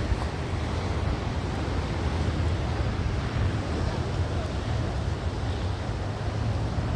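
Wind buffeting the microphone in a steady low rumble, over the constant wash of ocean surf.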